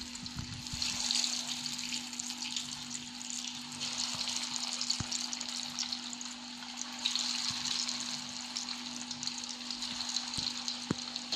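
Breaded minced-meat and cabbage patties frying in hot oil in a pan, a steady crackling sizzle, with a few light clicks as more patties are laid in.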